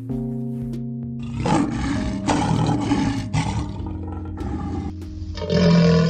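An animal roar, rough and noisy, lasting about two seconds, over steady background music; a second, louder animal call begins near the end.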